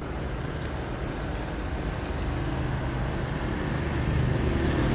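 A motor vehicle's engine running and growing steadily louder as it approaches, over a constant hiss of rain.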